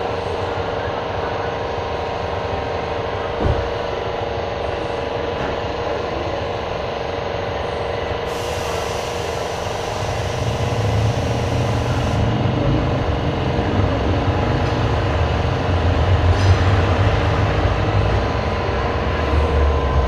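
Car accessories shop ambience: a steady machine hum over a noisy background, with a dull knock about three seconds in, a hiss of air for a few seconds from about eight seconds in, and a deeper rumble that builds from about ten seconds.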